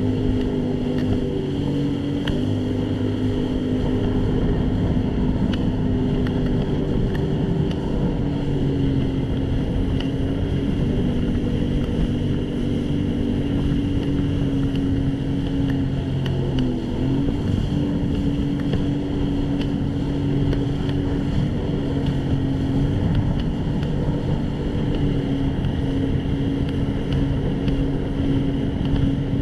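Jet ski engine running at a steady cruising speed, with a short dip in pitch a little past halfway that quickly comes back up, over rushing water and wind noise.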